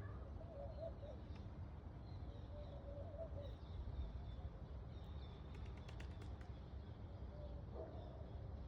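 Faint bird calls: three short wavering phrases over a steady low rumble, with a quick run of light clicks about six seconds in.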